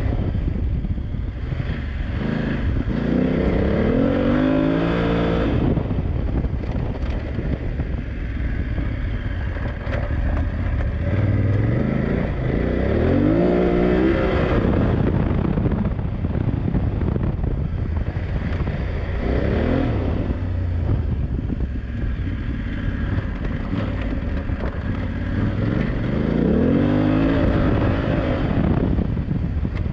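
BMW F900GS parallel-twin engine being ridden hard off-road, revving up and dropping back repeatedly through the gears, with a steady rush of wind noise on the microphone.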